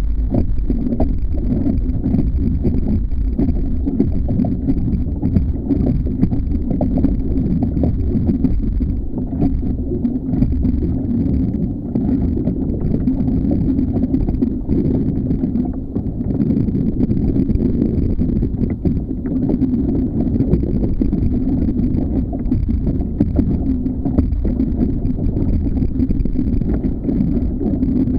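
Steady low rumble of a kayak under way on the sea, with water and wind noise on the microphone.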